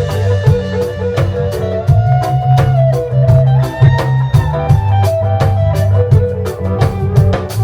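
Reggae band playing an instrumental passage: a heavy bass line under regular drum hits and guitar, with a held lead melody line over the top.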